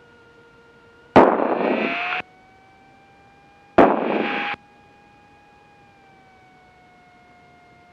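Two sudden bursts of radio static with no voice in them, the first about a second long and the second a little shorter, each cutting off sharply as a transmission ends. Under them runs the steady drone of the Cessna 172P's engine through the intercom, which rises slightly in pitch after the first burst.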